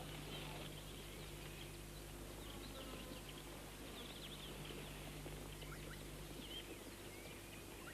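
Faint outdoor wildlife ambience: many short, scattered bird chirps over a quiet hiss and a low steady hum.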